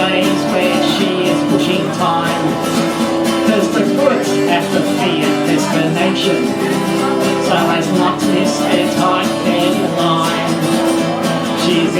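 Country song played live, guitar-led, in an instrumental passage with no singing.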